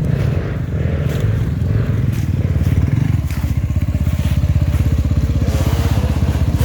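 Enduro motorcycle engine running close by at fairly steady revs, its exhaust firing in a fast, even beat.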